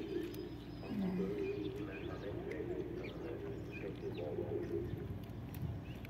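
Birds calling: a low wavering cooing, with short high chirps scattered through it.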